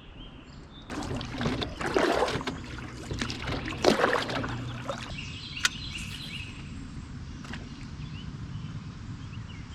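Knocking and rustling from someone moving about in a canoe, busiest from about a second in until about halfway, with one sharp click a little later. Faint bird chirps sound in the background.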